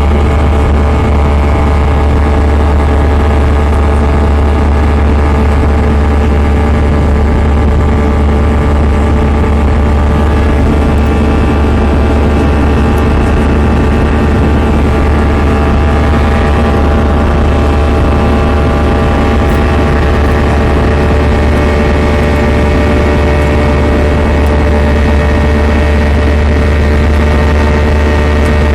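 Airbus A320 jet engines heard inside the passenger cabin, running steadily: a loud deep hum overlaid with several steady whining tones.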